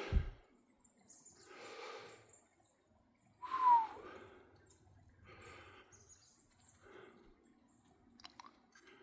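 A hiker breathing audibly while walking, with a soft breath about every two seconds and a short falling hum from the voice about halfway through.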